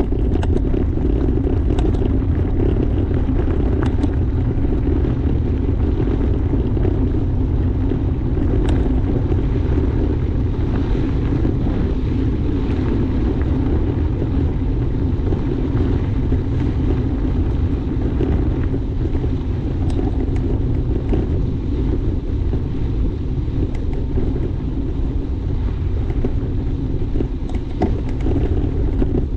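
Steady loud rumble of wind on the microphone and knobby tyres rolling over a dirt trail while riding a mountain bike, with a few faint clicks along the way.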